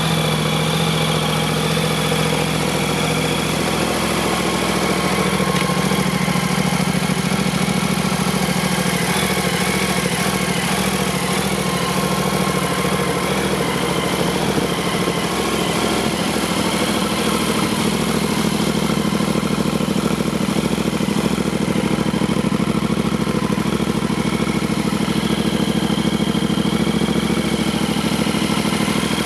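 Yamaha Ténéré 700's 689 cc parallel-twin engine idling steadily, its note shifting slightly about three and a half seconds in.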